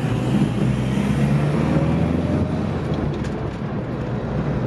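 Car engine and drivetrain running steadily while driving, heard from inside the cabin, with road noise underneath.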